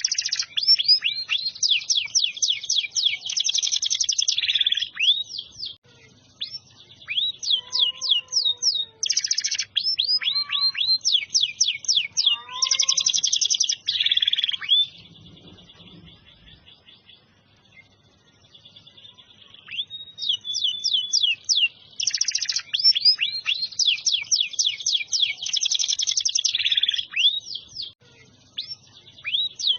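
Domestic canary singing: long runs of fast, high repeated chirps and rolling trills. The song breaks off about halfway through for a few seconds and then starts again.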